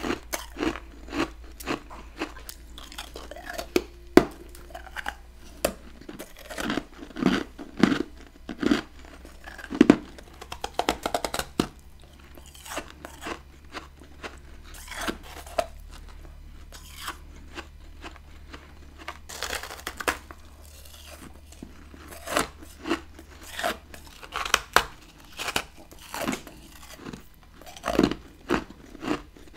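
Close-miked biting and chewing of chunks of humidifier-fed freezer frost: a long run of sharp, irregular icy crunches, sparser in the middle and denser again near the end.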